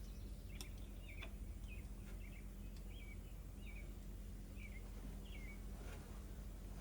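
A small bird chirping repeatedly, short notes that each drop in pitch, coming about once a second. A few sharp clicks sound now and then over a low steady hum.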